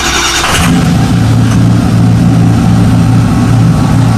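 Ford 6.0 Power Stroke V8 turbodiesel with a 4-inch straight-pipe exhaust: the starter cranks briefly, the engine fires under a second in and settles into a loud, steady idle. This is a cold start after sitting six months in storage.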